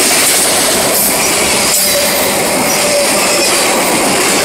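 Autorack freight cars rolling past close by: a loud, steady rush of steel wheels on rail, with a faint wheel squeal and a clank about two seconds in.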